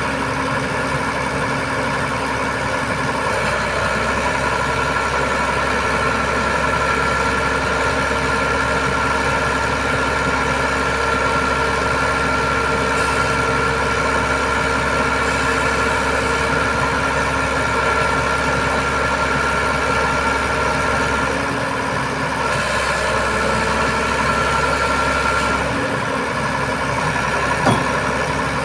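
Diesel engine of a truck-mounted boom crane running steadily, with a steady high whine over it and a brief knock near the end.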